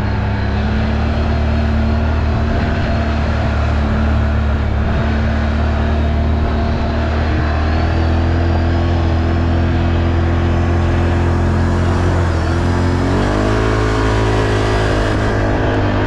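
ATV engine running steadily while riding, its pitch stepping up about halfway through, then dipping briefly and climbing again as the throttle changes.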